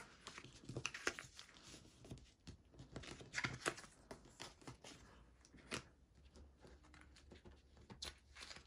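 Faint rustling and crinkling of paper sticker sheets being handled and leafed through, with scattered small crackles.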